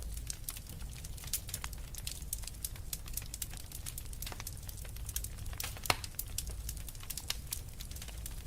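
Wood fire burning in a fireplace: logs crackling with irregular sharp pops, the loudest about six seconds in, over a low steady rumble of the flames.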